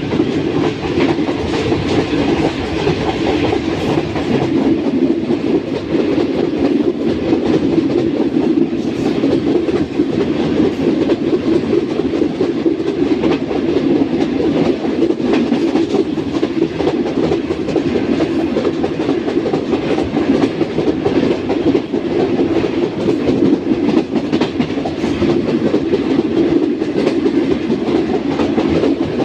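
Track rumble of a passenger train running at speed: the coaches' wheels give a steady low rumble over the rails, with faint scattered clicks.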